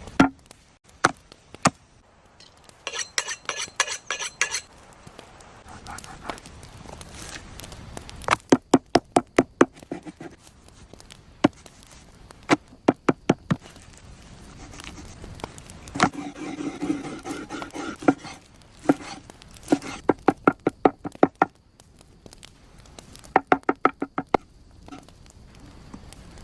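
Cooking utensils knocking and clattering in quick runs of sharp strikes, some with a ringing tone.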